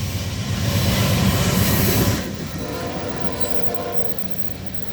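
Freight train passing close by, a loud rumble of locomotive and rolling wheels on the rails that drops off about two seconds in.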